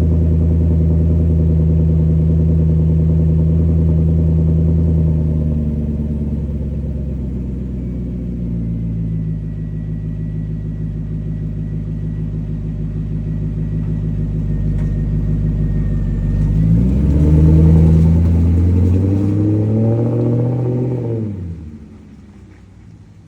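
Volvo XC90's Yamaha-built V8 through a custom Magnaflow muffler with the middle resonator and rear muffler deleted, idling after a cold start, the idle dropping a step about five seconds in. Near the end it revs up as the car drives off, then fades away quickly.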